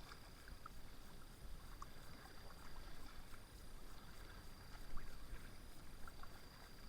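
Kayak being paddled: faint paddle splashes and water dripping off the blades, with a slightly louder splash about five seconds in.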